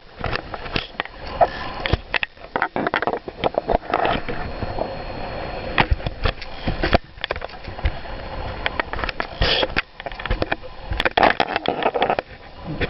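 Strong, gusty storm wind buffeting the microphone, rising and falling in uneven blasts, with many sharp slaps and knocks mixed in.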